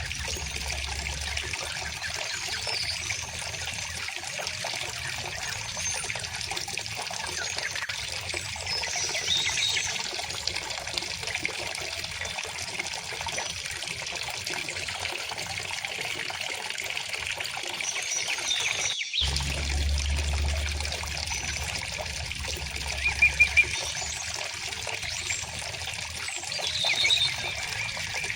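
A small river flowing steadily with a trickling, splashing sound, and songbirds chirping on and off over it, with a few louder chirps near the end. The sound breaks off for a split second about two-thirds of the way through.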